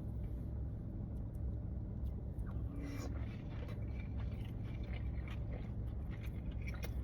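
Someone chewing and biting into sushi, with small scattered mouth and utensil clicks, over a steady low rumble.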